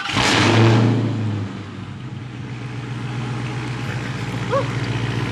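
Cold start of a Dodge HEMI V8 triggered by remote start. The engine catches with a loud flare of revs for about the first second and a half, then drops back to a steady high cold idle.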